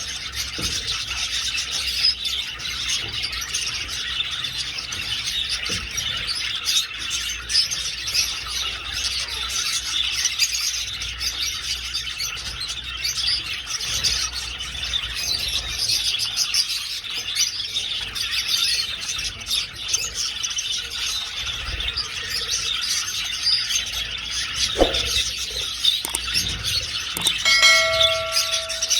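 A flock of budgerigars chattering and chirping continuously in an aviary. Near the end a brief ringing tone sounds for about a second.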